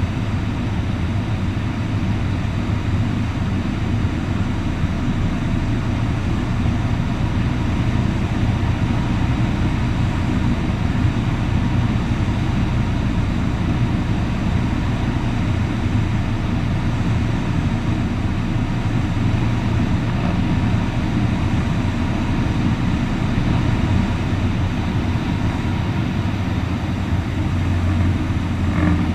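Cessna 152's four-cylinder Lycoming engine and propeller in flight, a steady, unchanging drone.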